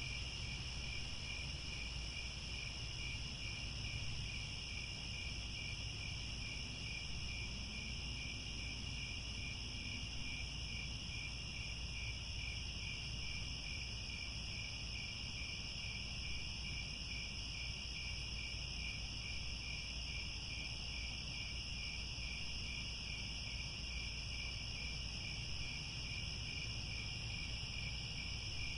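Chorus of crickets chirping: a continuous high trill with a fine, even pulse that never lets up. A low steady rumble runs underneath.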